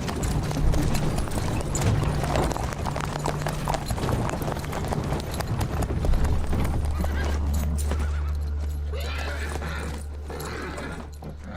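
Horses' hooves clattering at a walk, several horses together, with a horse whinnying. About halfway through, a low steady hum comes in beneath them.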